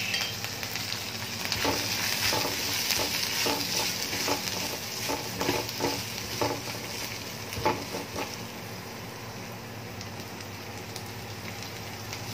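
Chopped garlic, shallots, ginger and salted fermented black beans sizzling in hot oil in a pan. A spatula stirs and scrapes through them in short strokes for the first eight seconds or so; after that the sizzle goes on alone, a little quieter.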